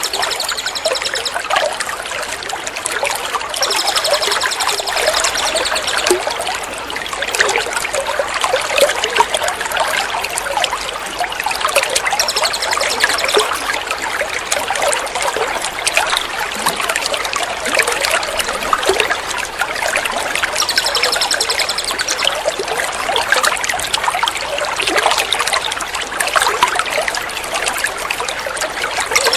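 Steady trickling, splashing running water of a 'water therapy' birdsong-training track, with a high, rapid bird trill cutting in several times.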